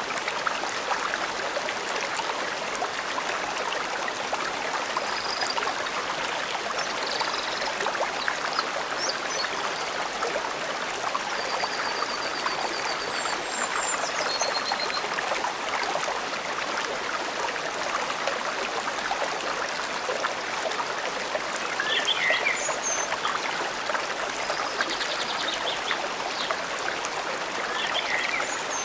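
Forest stream flowing steadily, with scattered high bird chirps and a short rapid trill over the water.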